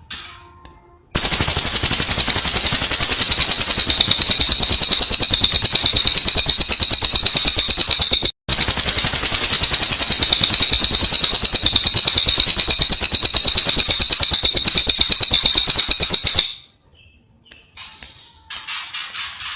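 Cililin songbird singing a long, very loud, rapid trill, two unbroken runs of several seconds each with a brief pause between them, with softer chirps before the first run and after the second.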